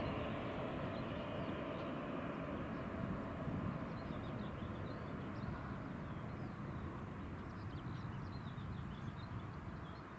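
A passing vehicle's broad rumble slowly fading away, with small birds chirping faintly over it.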